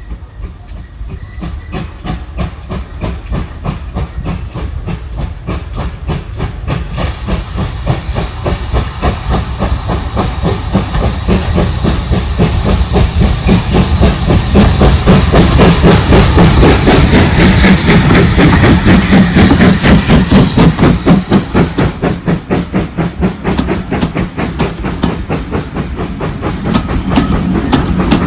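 Steam locomotive passing under way, with rapid rhythmic beats that grow louder to a peak about two-thirds of the way through, then ease off. A hiss of steam runs over the middle stretch.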